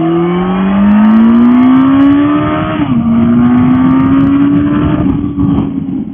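Honda CB919 Hornet's inline-four engine accelerating, its pitch rising steadily, then dropping suddenly at an upshift about three seconds in and climbing again, with another dip about five seconds in.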